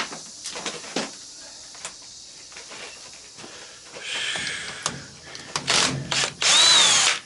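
Power drill spinning a nut-driver bit in short bursts to back out the washing machine motor's fasteners: a burst about four seconds in, another shorter one, and a last, longest and loudest run near the end whose whine rises and then falls. A few sharp clicks and knocks of handling come before.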